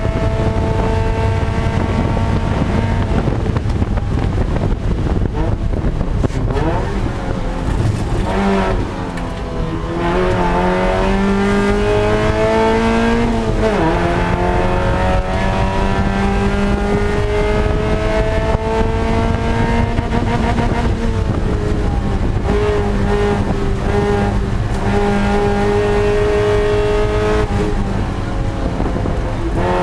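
Spec Miata race car's four-cylinder engine heard from inside the cockpit, running hard at racing speed. Its pitch climbs under acceleration, drops sharply about halfway through as a gear changes, and eases off twice when the car slows for corners.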